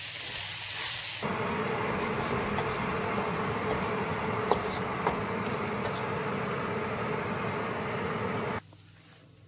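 Rice and red lentils sizzling in hot mustard oil in a wok as they are stirred, for about a second. Then a steady buzzing hum takes over, with two sharp clicks of the spatula against the wok, and it cuts off abruptly near the end.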